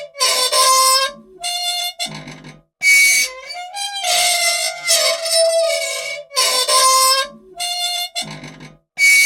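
Squeaky old machine squealing over and over, a short high-pitched squeak about once or twice a second with brief gaps between them: moving parts running dry and in need of oil.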